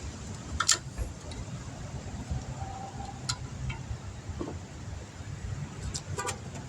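A few sharp metallic clicks and clinks of hand tools at a seized brake caliper guide pin, the loudest just under a second in and a quick double click near the end, over a steady low rumble.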